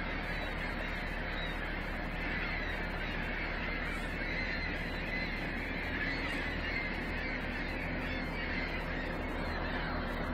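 A large flock of birds calling all at once, a steady dense chatter of many overlapping calls.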